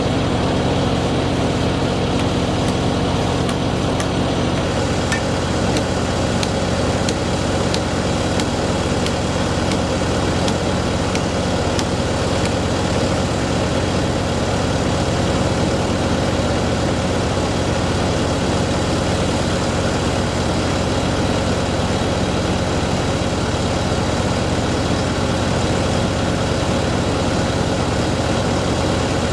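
A heavy engine running steadily at idle, with faint clicking in the first half.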